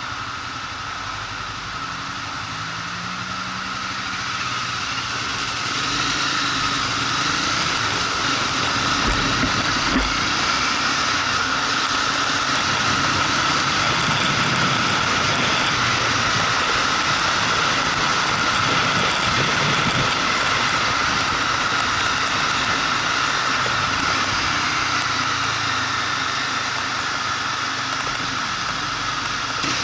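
Motorcycle engine running while riding, with steady road noise; it gets louder over the first five seconds or so and then holds steady.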